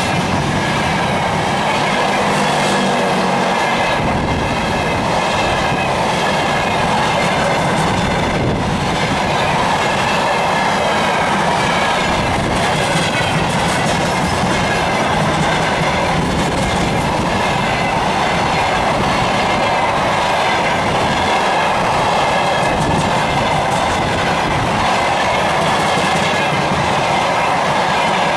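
Freight train of hopper wagons rolling past at speed close by, the steel wheels running on the rails in a loud, steady rumble that goes on unbroken.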